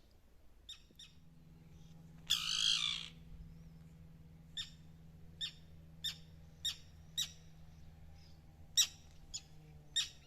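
A bird calling with short, sharp, repeated notes, roughly one every half second to second, and one longer, louder harsh call about two seconds in.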